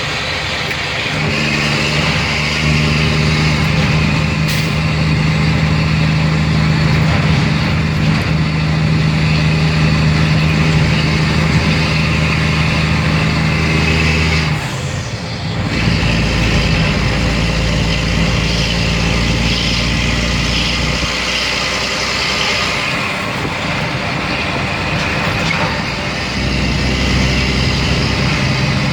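2004 Mack Granite dump truck's diesel engine running steadily under way. Its note drops away and changes about halfway through, shifting to a deeper rumble before the steady engine note comes back near the end.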